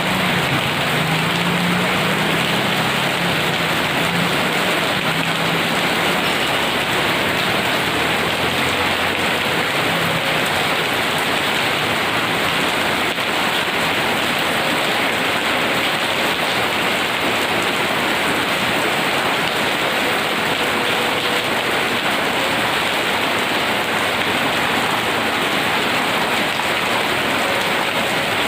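Heavy rain pouring steadily, an even dense hiss of rain hitting surfaces with no letup.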